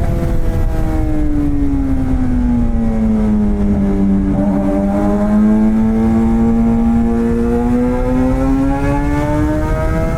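Suzuki GSX-R600 K7 inline-four with a straight-piped M4 exhaust and no catalytic converter, running on the road: its note sinks slowly over the first few seconds, holds low, then climbs back up near the end, over a steady low rush of wind.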